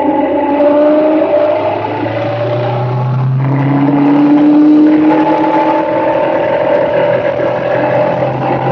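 Motorcycle engine accelerating, its pitch climbing, then dropping suddenly at a gear change about three and a half seconds in before climbing again.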